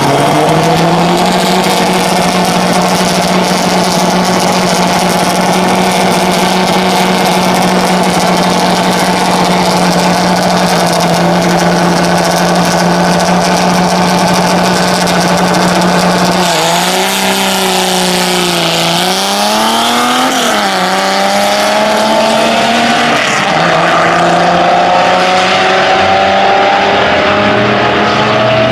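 Dodge Polara race car's engine running at steady high revs for about sixteen seconds, then the revs dip and rise several times and climb steadily near the end.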